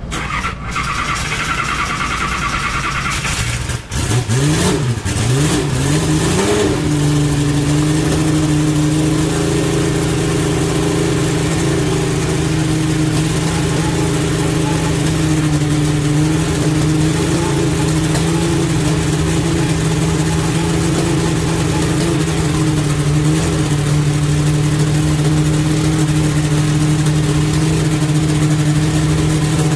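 The 1988 Nissan GTP-ZX Turbo's 3.0-litre turbocharged V6 race engine catches about four seconds in. Its pitch swings up and down briefly, then it settles into a steady idle as the engine is warmed up.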